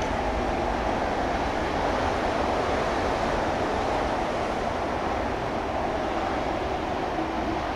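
Meitetsu electric train rolling away down the line from the station: a steady wash of wheel-and-rail noise with a low rumble underneath.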